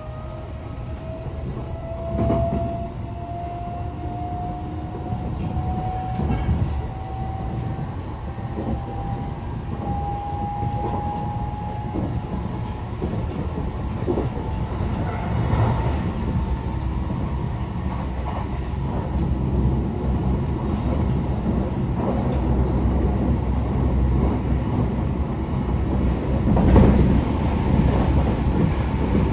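Tokyo Metro 18000 series train's Mitsubishi IGBT inverter and permanent-magnet synchronous traction motors: a whine that rises steadily in pitch for about the first twelve seconds as the train accelerates, then fades under steady wheel-and-rail running noise with clicks that grows gradually louder. A brief louder rush comes near the end.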